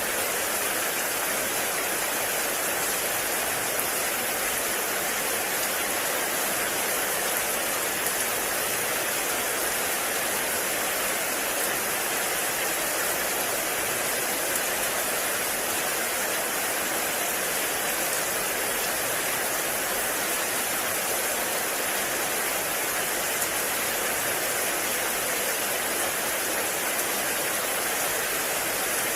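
Heavy rain falling in a forest, a steady, even hiss of rain with no breaks or changes.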